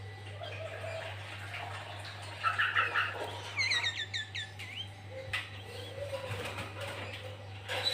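Sooty-headed bulbul (kutilang) singing: a short chattering phrase, then a quick run of about eight high downslurred whistles, followed by scattered single notes. A steady low hum runs underneath.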